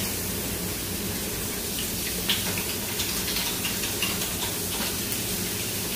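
Shrimp searing in hot oil in a frying pan: a steady sizzle with scattered crackling pops.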